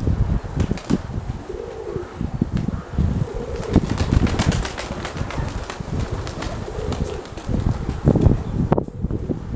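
Domestic pigeons cooing, a few separate coos, over a loud gusting rumble of wind on the microphone.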